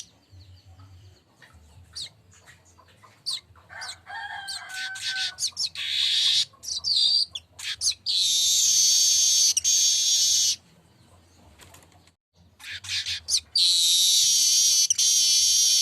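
Streaked weaver (manyar kembang) singing: scattered short chirps and clicks, then long, loud, high buzzing song phrases of two to three seconds each, twice in the second half.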